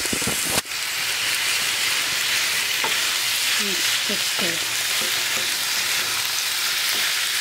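Diced chicken, onions and carrots sizzling steadily in a hot frying pan while a wooden spatula stirs them, with a few short squeaks about halfway through.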